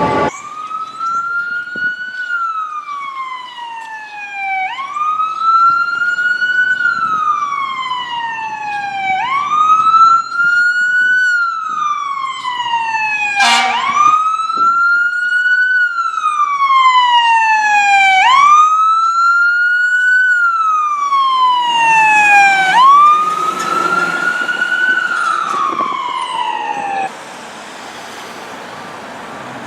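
Fire apparatus siren on wail, rising and falling slowly in a repeating cycle of about four and a half seconds, six times over. There is a sharp short blast about halfway through, and road noise grows under the siren before it cuts off abruptly near the end.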